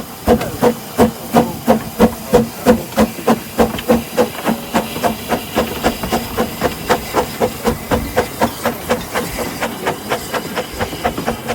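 Narrow-gauge steam locomotive pulling away, its exhaust chuffing about three beats a second at first, the beats coming faster and growing fainter as it gets under way, over a steady steam hiss.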